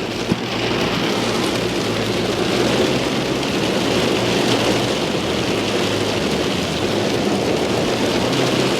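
Heavy rain pouring down steadily, with a low steady hum underneath.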